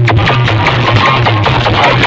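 Two large DJ sound systems playing loud music at the same time, their songs clashing over a heavy, steady bass and dense beats.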